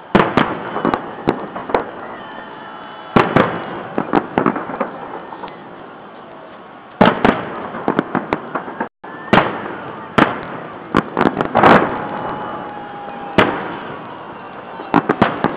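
Aerial firework shells bursting in clusters of sharp bangs every few seconds, with crackling between the clusters over steady background noise.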